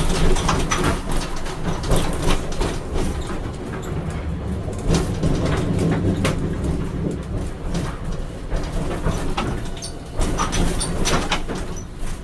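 Hiroshima Electric Railway 5200-series low-floor tram running on street track: a steady rumble from the wheels and running gear with irregular sharp clacks and clicks over rail joints and points.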